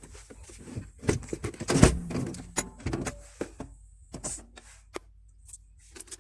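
A string of short clicks and knocks over a faint low hum, with a quieter stretch near the end; the tags point to vehicle door and window handling.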